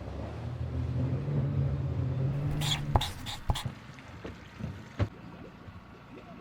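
A motor runs with a steady low hum, then cuts off abruptly about three seconds in, followed by a few sharp clicks and a knock.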